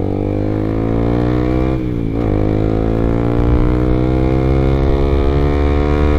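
Honda CBR150R single-cylinder engine through an R9 aftermarket exhaust, heard from the saddle under acceleration: revs climb, drop sharply at an upshift about two seconds in, then climb steadily again in the next gear, with another shift at the very end.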